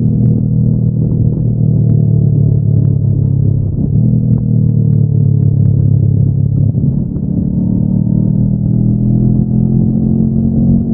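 Honda NX500's 471 cc parallel-twin engine running on its stock exhaust while the bike is ridden. The note dips briefly about four seconds in, turns softer from about seven seconds, and pulls harder again near the end.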